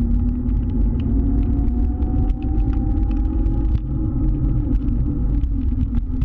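Scooter ride, with a heavy low rumble throughout. A whine climbs slowly in pitch over the first few seconds, then fades.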